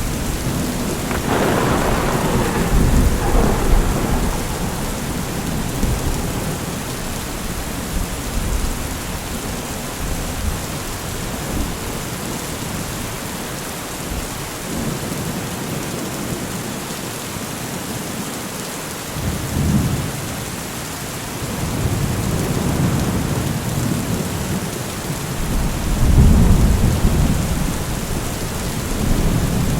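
Steady heavy rain with thunder rolling several times: a sharper clap and rumble about a second or two in, then deep low rumbles near the middle and again toward the end.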